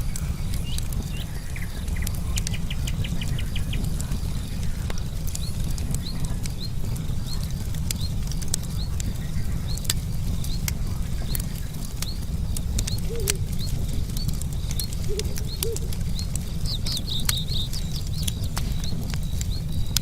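Campfire crackling, with frequent sharp pops and snaps over a steady low rumble. A steady high insect chirring runs underneath, with a short bird trill early on and a cluster of bird chirps near the end.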